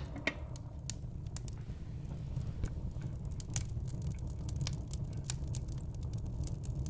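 Wood burning in a fireplace, crackling with irregular sharp pops over a steady low rumble of the flames.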